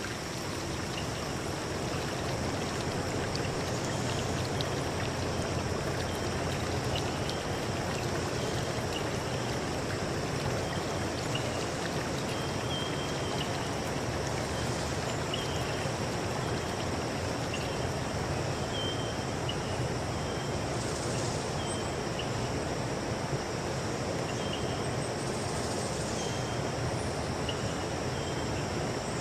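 River stream rushing steadily over rocks, a constant water noise, with a bird giving short high chirps about once a second throughout.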